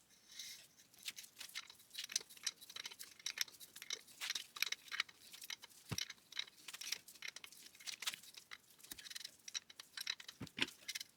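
Fast, irregular light metallic clicking and ticking of a hand tool working the center set screw that locks the VW Beetle front beam's torsion bars in place, with a couple of duller knocks.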